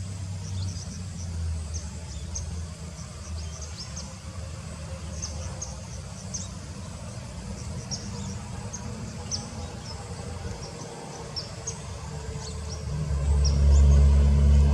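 Outdoor ambience: many short, high chirps scattered irregularly throughout, over a low rumble that gets much louder near the end.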